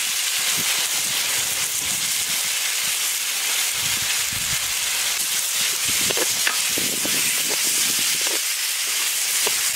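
Onion, tomato and spice paste with yogurt sizzling steadily in hot oil in a metal kadai. Short scrapes and clicks of a spatula stirring the pan come through now and then, mostly in the second half.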